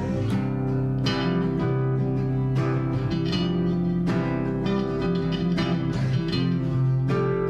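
Acoustic guitars strumming and picking an instrumental passage of a rock song, with no singing.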